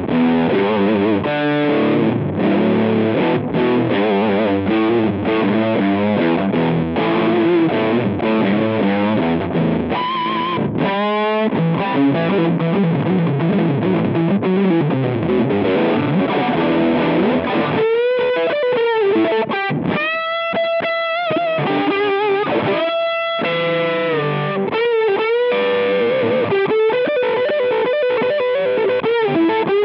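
Electric guitar played through a Rowin LEF-606 fuzz pedal. It starts with dense, fuzzed chord riffing, and a little past halfway it moves to held single notes with bends and vibrato.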